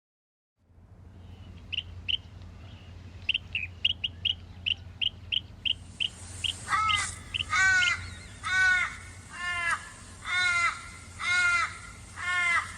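A crow cawing, a run of about seven drawn-out, arching caws roughly one a second, led in by a string of short, high chirps.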